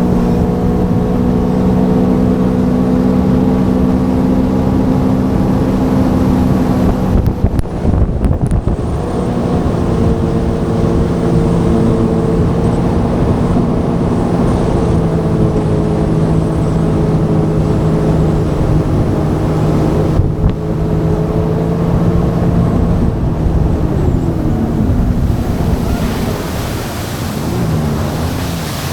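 Sea-Doo FishPro jet ski engine running at a steady cruising speed, with wind and water rushing past. About eight seconds in the sound briefly breaks up, and near the end the engine pitch wavers as the throttle changes.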